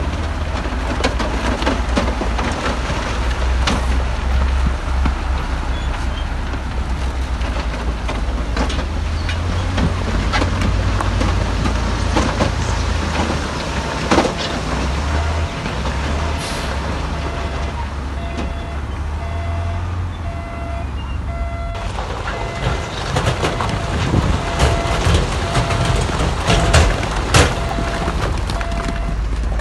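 Heavy diesel earthmoving machinery running under load, a deep steady engine rumble with frequent clanks and knocks of rock and steel. From about halfway through, a reversing alarm beeps about once a second.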